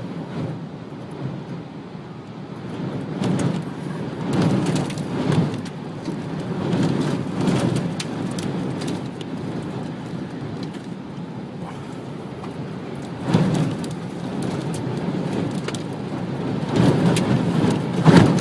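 Tornado wind gusting against a car, a steady rush that swells in uneven surges every few seconds.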